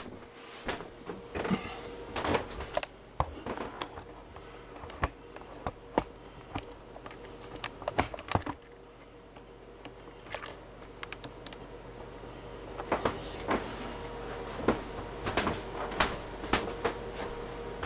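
Irregular light clicks and taps of hands handling small parts and tools, coming thicker toward the end.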